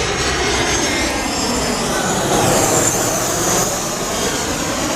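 Jet airliner passing low overhead, a loud steady jet engine noise with slowly sweeping pitch bands that swells about halfway through.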